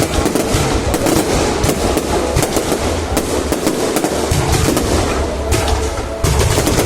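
Fireworks display: a continuous barrage of bangs and crackling, with shells bursting in quick succession.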